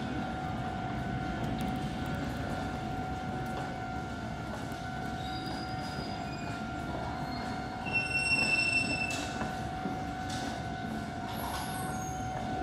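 Japanese level crossing alarm ringing continuously as an Iyotetsu 3000 series train comes in to the station, its running heard as a steady low rumble. About eight seconds in the train's wheels squeal briefly on the rails.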